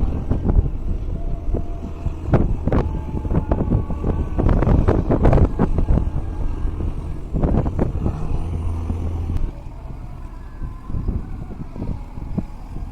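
Tugboat engine running with a steady low rumble, under gusty wind buffeting the microphone; the rumble eases about nine and a half seconds in.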